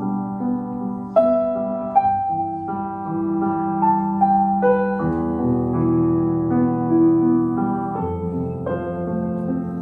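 Piano playing a slow, gentle accompaniment: sustained chords struck every second or few and left ringing, with a new chord about a second in and again near the middle and the end.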